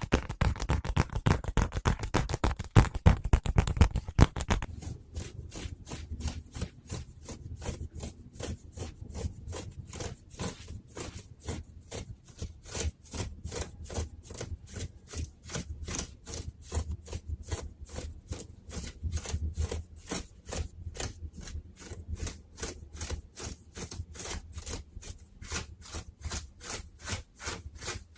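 Fabric of a JK-style school uniform being scratched and rubbed in quick, even strokes, about four a second. The strokes are heavier and fuller for the first four or so seconds, then lighter and crisper.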